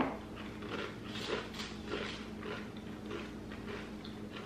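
Mouth-closed chewing of a Smoky BBQ Pringles Harvest Blends crisp (a sweet-potato-blended stacked potato crisp): a run of crisp crunching crackles, about three a second, growing fainter as the mouthful breaks down.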